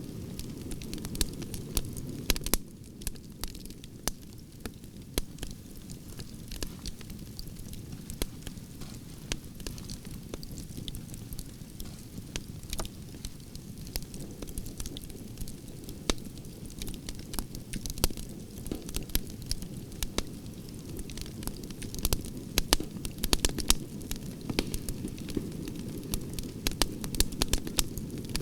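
Wood fire crackling in a fireplace: a steady low rumble of flame with irregular sharp pops and crackles throughout, busier near the end.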